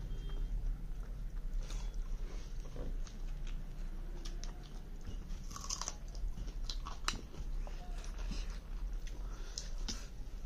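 Close-up chewing and mouth sounds of a person eating rice and chicken curry by hand, with scattered short clicks and smacks over a steady low hum.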